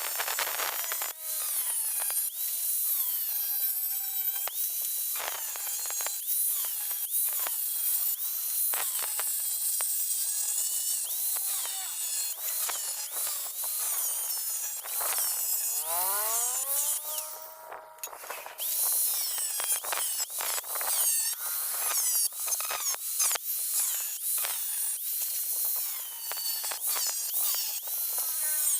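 Electric drill machine driving a homemade earth auger, running with continuous irregular scraping and clicking. About sixteen seconds in there is a rising whine, then a short lull before the noise picks up again.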